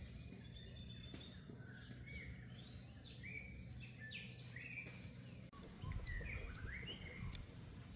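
Birds chirping: many short, quick rising and falling chirps, with a low rumble coming in past the middle.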